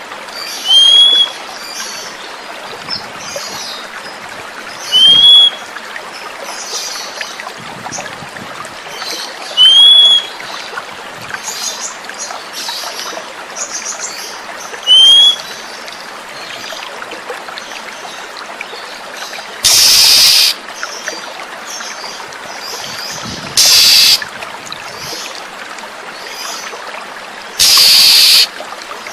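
Oriental magpie-robin lure calls over steadily trickling water: a loud, short, rising whistle repeated four times about every four to five seconds, with faint chirps around it. In the second half come three loud, harsh hissing bursts, each about a second long.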